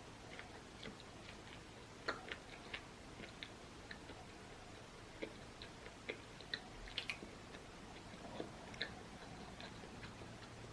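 A person eating close to the microphone: irregular small clicks and smacks of chewing, faint over a steady low background.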